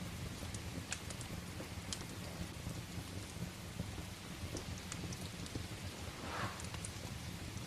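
Steady rain with a low rumble underneath and scattered sharp crackles and pops from a wood fire. A brief brighter swell comes about six seconds in.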